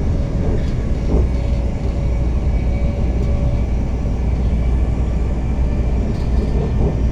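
Passenger train running at speed, heard from inside the carriage: a steady low rumble of wheels on the track, with no sudden knocks.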